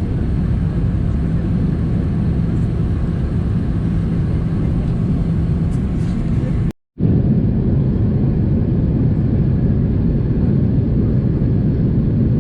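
Steady in-flight cabin noise inside an Airbus A330-300 airliner: a deep engine and airflow drone with low hums. About seven seconds in it drops out for a fraction of a second at an edit, then resumes.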